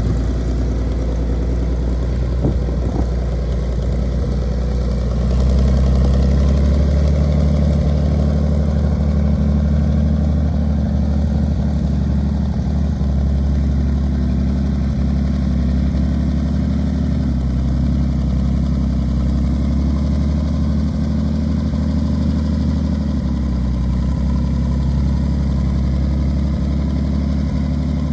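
1958 Farmall 560 tractor's gasoline six-cylinder engine running steadily at idle, picking up a little about five seconds in.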